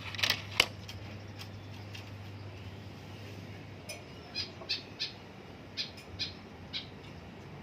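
Oriental magpie-robin (kacer) giving a series of short, sharp calls, the loudest two near the start and a run of about seven more spaced through the second half. The bird's song is still in the training stage, not yet settled into full song.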